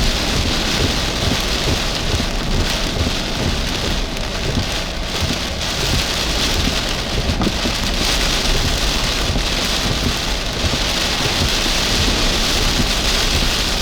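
Heavy wind-driven rain in a tropical storm's outer band, with gusting wind buffeting the microphone in a steady, loud rumbling roar.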